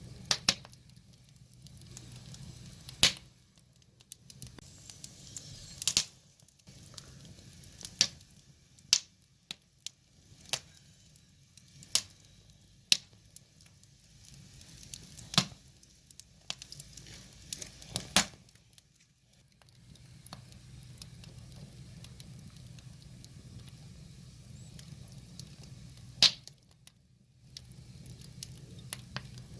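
Firewood burning: wood crackling, with about a dozen sharp, irregular pops and snaps over a low steady hum.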